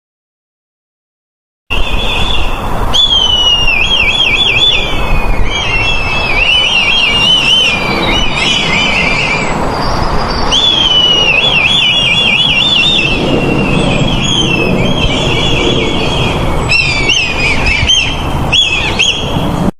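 A kite calling: runs of high, quavering, whinnying whistled calls, repeated again and again, over a steady background hiss and rumble. They start about two seconds in, after a silent gap.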